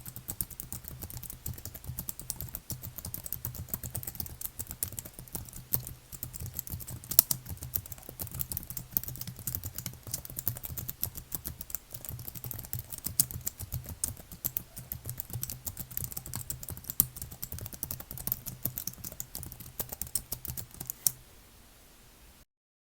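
Fast, continuous typing on a computer keyboard: a dense, uneven patter of key clicks that stops about two seconds before the end.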